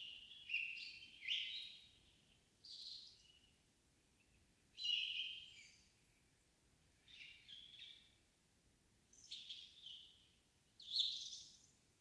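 Songbirds singing in an evening forest: short, high song phrases about every one to two seconds, with pauses between them, over a faint still background.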